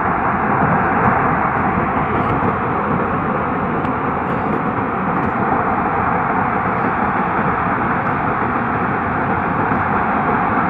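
A steady, loud rushing noise, even throughout, with no distinct knocks or tones.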